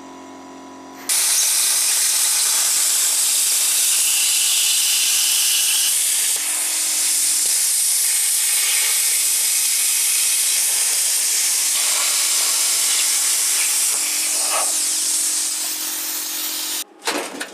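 Plasma cutter cutting thin dishwasher sheet metal: a loud steady hiss that starts abruptly about a second in and cuts off shortly before the end. A quieter steady hum comes before it.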